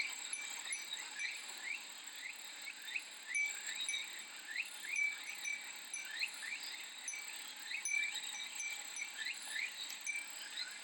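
Japanese glass wind chime (fūrin) tinkling in short ringing notes over a steady, high, pulsing cicada drone. Many short rising chirps run throughout.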